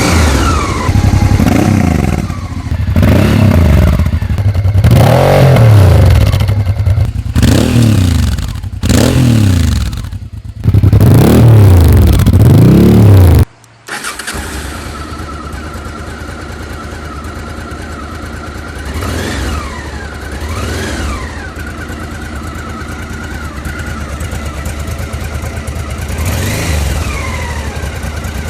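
Honda XRV 750 Africa Twin V-twin motorcycle engine revved repeatedly through its exhaust, a series of loud blips each rising and falling in pitch, until the sound cuts off abruptly about halfway through. It then idles steadily, more quietly, with a few light blips of the throttle.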